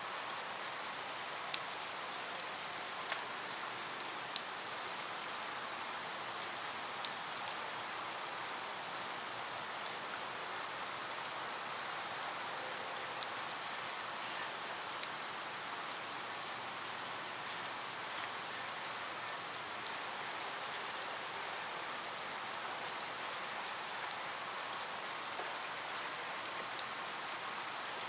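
Steady rain falling, with individual drops ticking sharply and irregularly on a surface.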